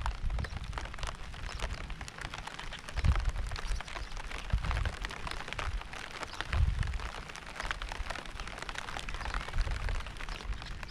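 Steady rain with many fine drops pattering. Low rumbles swell up and die away several times, about every two seconds.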